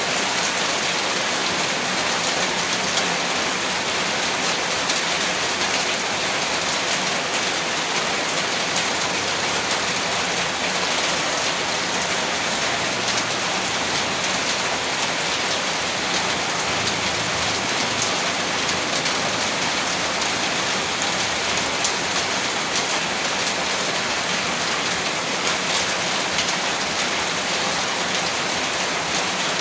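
Heavy rain pouring steadily onto a surface, a dense, even patter of drops with no let-up.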